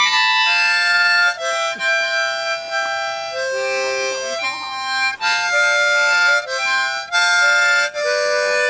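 Harmonica playing a slow tune in held chords, several reeds sounding together, with a few short breaks between phrases.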